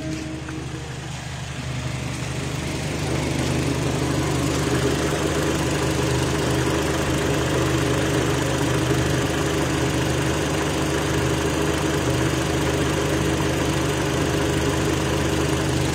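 Kia Rio engine idling steadily, running again with its repaired engine computer box. The engine sound builds over the first few seconds and then holds even.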